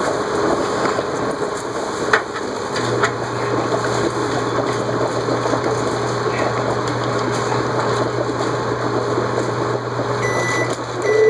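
Steady mechanical whirring with a low hum that sets in about three seconds in, and a couple of light clicks. Near the end a pigeon-like cooing warble begins.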